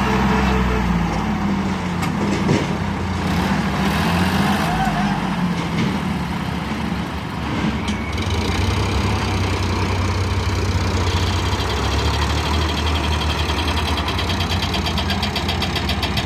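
Tractor diesel engine running. Its pitch wavers over the first few seconds, then settles to a steady low idle.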